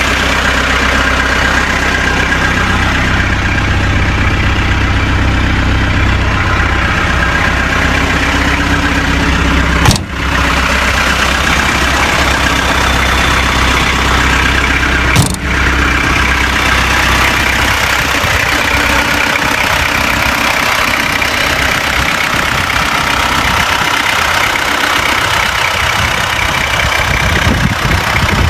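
Classic car engine idling steadily, with two sharp clicks, one about ten seconds in and one about fifteen seconds in.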